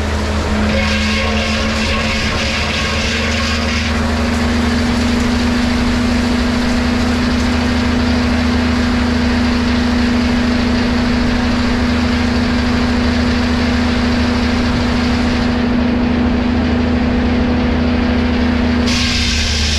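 Lumber-milling machinery (sawmill, planer or edger) running steadily under power: a continuous low drone with a steady hum over it.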